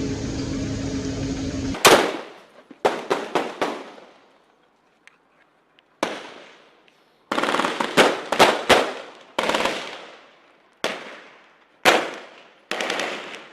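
Gunfire echoing between buildings: single shots and short bursts of automatic fire, spaced irregularly, each crack dying away in a ringing tail. Before the first shot a steady engine drone cuts off abruptly.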